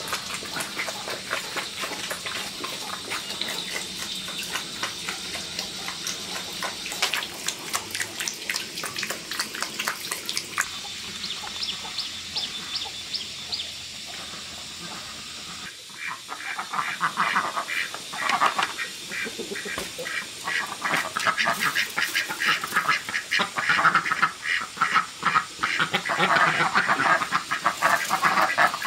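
A flock of ducks quacking, with many overlapping short calls. The calls grow louder and busier in the second half.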